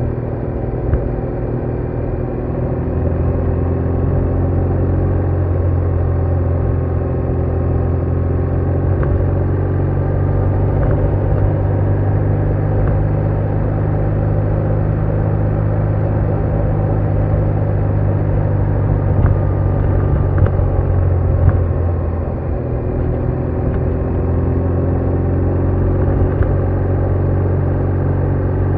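BMW R1200R flat-twin boxer engine running under way, a steady low rumble. The engine note eases and dips briefly about three-quarters of the way through, then climbs again as it pulls.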